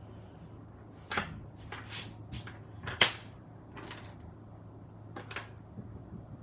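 Craft supplies being handled on a desk: a string of sharp clicks and knocks, the loudest about three seconds in, over a low steady hum.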